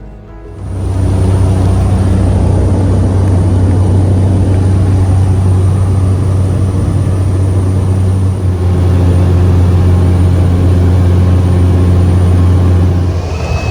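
Loud, steady engine drone with a deep hum and a thin high whine over it, starting about half a second in.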